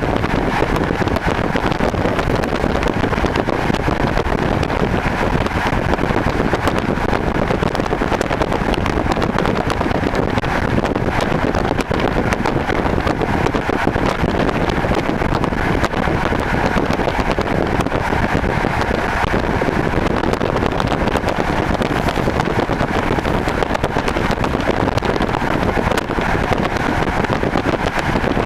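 Steady running noise of a passenger train moving at speed, heard from inside the carriage: an even rumble and rush of wheels on rails and air.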